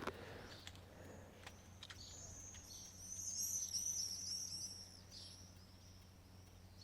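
A small songbird singing a rapid twittering run of high chirps, starting about two seconds in and lasting around three seconds.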